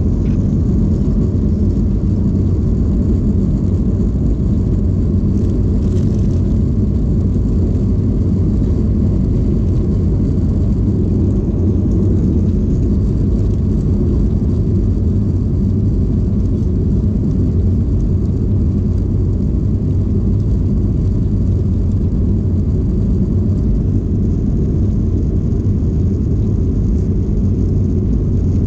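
Airliner cabin noise: the steady, low rumble of engines and airflow heard from inside the plane as it takes off and climbs.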